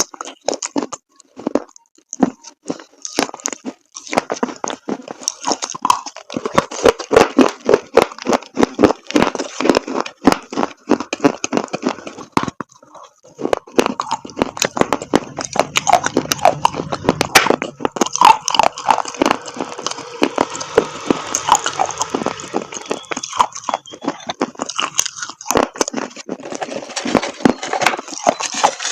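Close-up biting and chewing of dried chalk paste: a dense run of crisp crunches and snaps, with a brief lull about halfway through.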